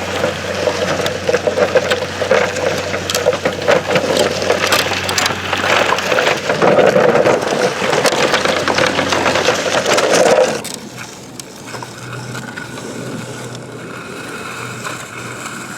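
Sand being dug and scraped with toy construction trucks: continuous gritty scraping and crunching that stops abruptly about ten and a half seconds in, leaving a fainter steady hum.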